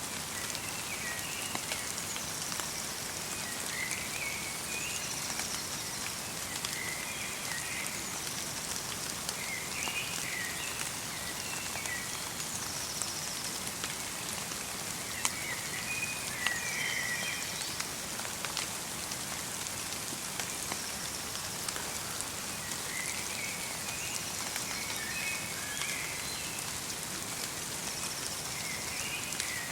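Light rain falling in a forest, a steady patter with many small drips, while small birds call in short twittering phrases every few seconds, with thin high notes between them.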